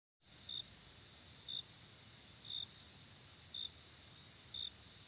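Faint crickets at night, starting just after a moment of silence: a steady high trill with a single short chirp repeating about once a second.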